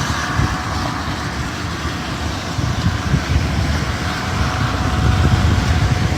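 Highway traffic going by on the wet road, a steady tyre hiss, with wind rumbling and buffeting on the phone's microphone; the noise swells a little near the end.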